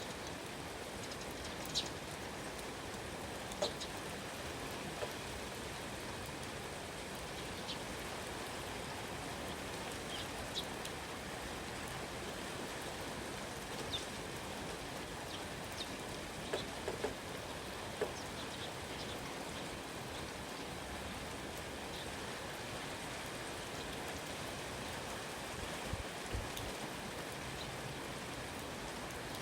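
Steady rain falling, an even hiss of drops on surfaces, with scattered sharp high ticks from individual drops.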